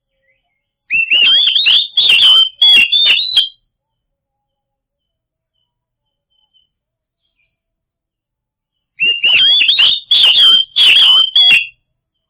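Oriental magpie-robin (kacer) song: two loud bursts of rapid whistled notes and harsh clicks, one about a second in and one near the end, separated by several seconds of silence.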